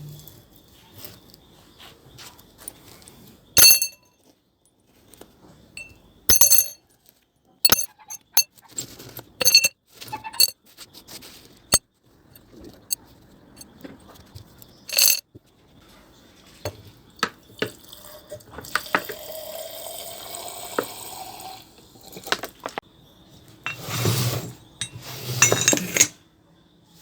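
A string of sharp clinks and clicks of small hard parts being handled, several ringing briefly. In the second half comes a few seconds of hiss, then two louder clatters near the end.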